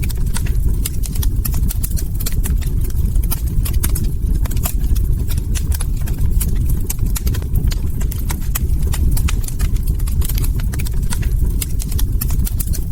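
Wood fire crackling: a constant low rumble of burning logs, with dense, irregular sharp pops and snaps of burning wood.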